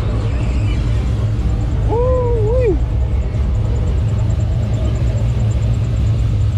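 A car engine running with a steady low rumble. About two seconds in, a short rising-and-falling call, like a voice, sounds over it.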